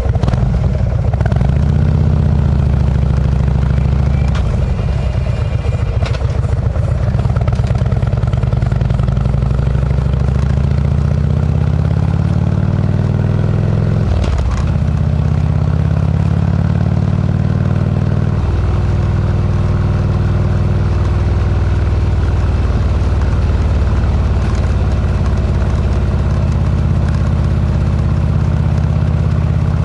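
Harley-Davidson V-twin fitted with a Kesstech exhaust, running under way with a deep, loud exhaust note that varies with throttle; the engine note changes noticeably about 14 seconds in and again about 18 seconds in.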